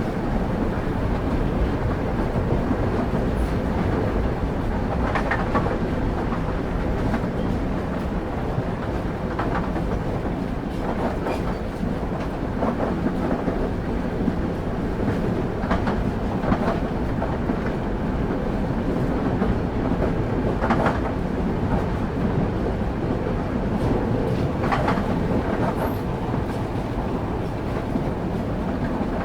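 Railway carriage wheels rolling on the rails, heard on board the train: a steady low rumble with a sharp click from the wheels every few seconds, the clickety-clack over rail joints.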